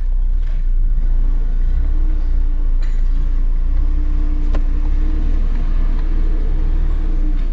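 Renault Scenic II's 1.6-litre K4M 16-valve four-cylinder petrol engine running steadily, a deep even rumble with a steady hum over it, during a running test of the engine. Two short clicks sound about three and four and a half seconds in.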